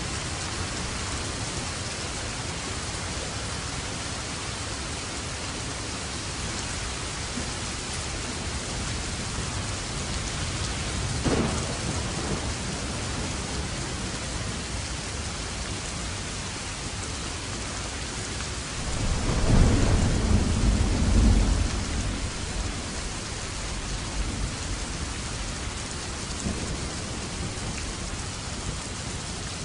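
Steady rain hissing, with thunder: a short, sharp crack about a third of the way in, then a louder, deep rumble lasting a few seconds about two-thirds of the way through that fades away.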